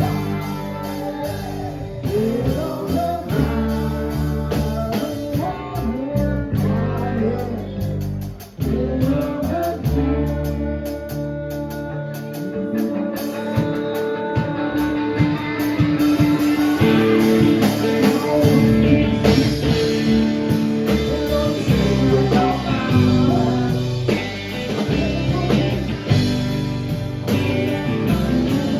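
Live band playing rock music with guitars and singing.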